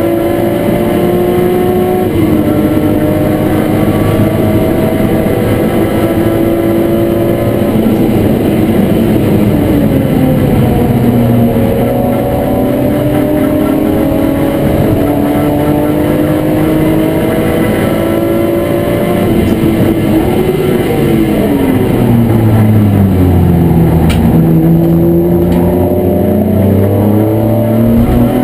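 BMW E36 M3 race car's straight-six engine heard from inside the stripped, roll-caged cabin, rising in pitch as it pulls through the gears with drops at the upshifts. It eases off briefly about ten seconds in, then falls steeply in pitch under hard braking and downshifting about twenty seconds in, before accelerating again near the end.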